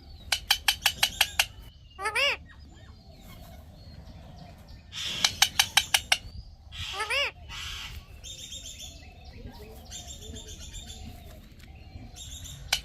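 Indian ringneck parrot calling: two quick runs of sharp, repeated shrieks, about six a second, one near the start and one about five seconds in. Between them come single longer calls that bend up and down in pitch.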